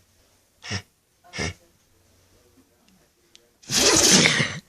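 Dog sneezing: two short, sharp sneezes about a second in, under a second apart, then a longer, much louder sneeze near the end.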